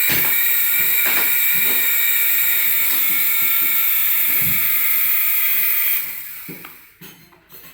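Small electric motors of a rechargeable RC toy aircraft spinning at steady speed with a high whine and hiss, with a few light knocks from handling; the motors wind down and stop about six seconds in.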